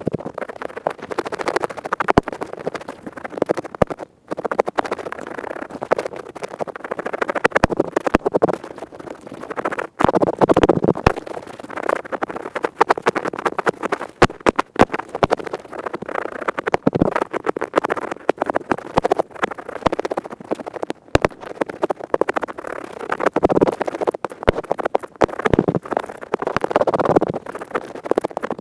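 Earpick scraping fast right at the microphone: a dense, crackly scratching full of sharp clicks that swells and eases every few seconds.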